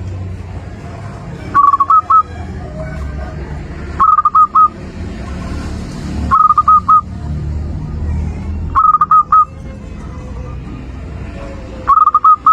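Zebra dove (perkutut) cooing: five short phrases of about four quick notes each, repeated about every two and a half seconds, over a steady low rumble.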